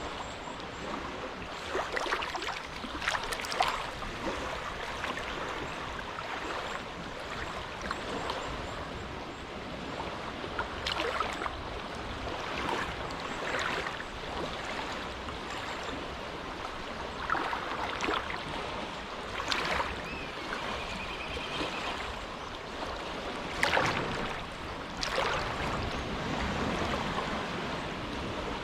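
Small, gentle waves lapping on the shore of a sheltered inlet: a steady wash of water with soft splashes every second or two.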